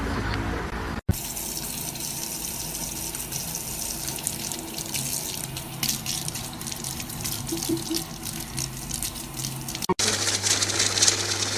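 Water running steadily, as from a tap, broken by two abrupt cuts about a second in and near the end.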